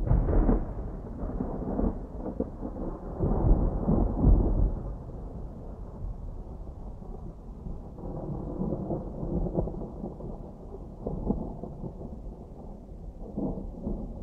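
Thunder rumbling in long, low rolls, loudest at the start and again around three to four seconds in, then fainter rumbles.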